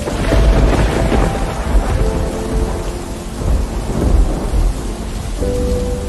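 Thunder rumbling over steady heavy rain, with one long roll near the start and another about two-thirds of the way through. Soft background music comes back in near the end.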